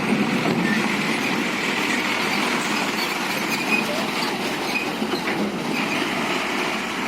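Heavy dump truck running steadily under load on a climb, with a few short high squeaks.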